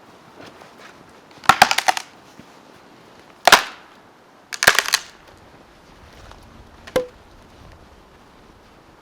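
Dry sticks being snapped for kindling: sharp cracks in four bursts. The first and third bursts are runs of rapid snaps, and the last is a single crack with a short ring.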